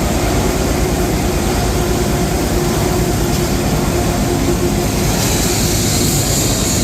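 Scrap plastic washing plant machinery running steadily, a constant low rumble with a steady hum over it.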